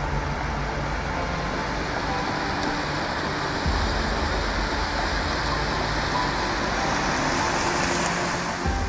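Steady rushing noise of floodwater, its hiss growing brighter toward the end, with faint background music underneath.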